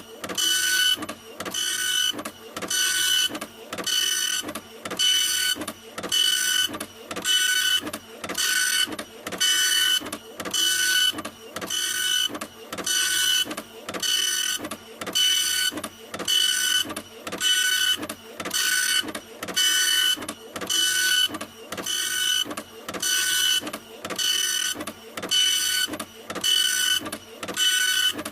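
Printer running continuously, its print head moving in short passes about once a second, each pass a noisy whir with a steady whine, with brief pauses between passes.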